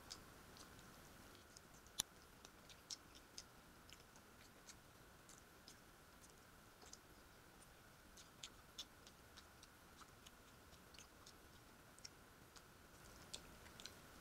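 Faint close-up chewing: irregular soft mouth clicks and wet smacks of someone eating with the mouth closed, with one sharper click about two seconds in.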